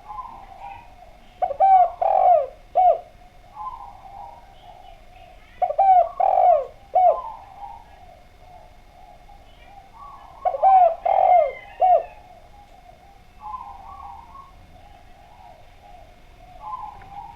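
Spotted dove (derkuku) cooing: three loud phrases of about three curved coo notes each, repeated roughly every four to five seconds, with softer coos in between.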